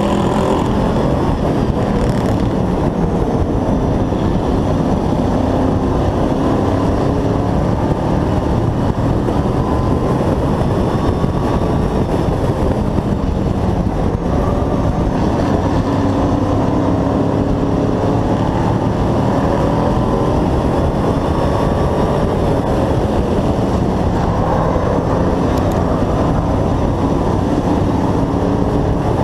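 Hobby-class race truck engine running hard under racing load, heard on board, its pitch rising and falling repeatedly as it accelerates and lifts off around the track.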